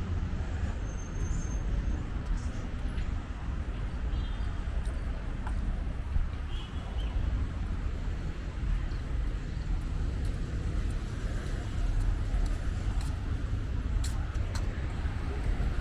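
Steady rumble of road traffic, with a few faint short squeaks and clicks.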